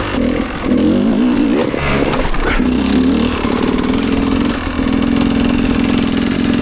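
Enduro motorcycle engine riding under throttle, revving up and down over the first few seconds, then holding a steady pitch near the end.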